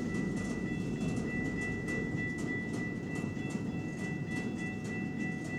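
CPKC freight train cars rolling past slowly: a steady rumble of the train with light clicking of wheels on the rails and a faint steady high whine over it.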